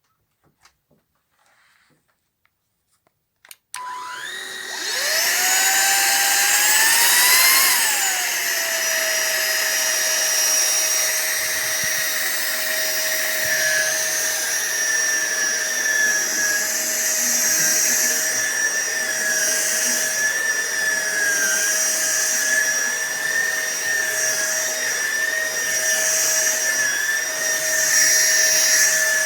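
A few faint clicks, then a short beep, and a SunSare cordless stick vacuum cleaner's motor starts up. Its whine rises in pitch for a few seconds, drops to a lower pitch about eight seconds in, and then runs steadily with a rush of air.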